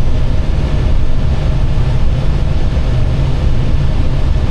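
Steady low rumble of airflow and engines on an Airbus flight deck during final approach, with a few faint steady tones above it.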